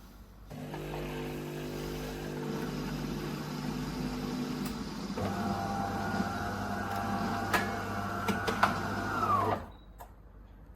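De'Longhi Dinamica Plus bean-to-cup coffee machine running: a steady motor hum, then about five seconds in a different, higher whir with a few clicks. Near the end the whir winds down in pitch and stops.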